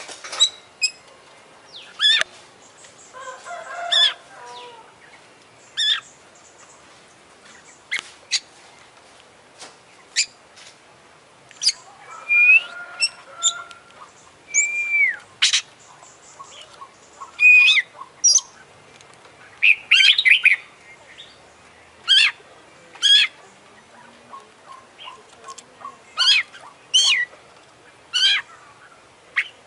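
Oriental magpie-robin (kacer) singing a loud, varied song of separate sharp chirps and slurred whistles at irregular spacing, with a couple of bursts of harsher chatter, a repertoire filled with imitated calls of other birds.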